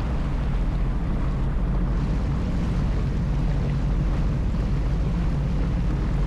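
Sea-Doo jet ski engine running steadily while under way, with wind buffeting the microphone and water rushing past the hull.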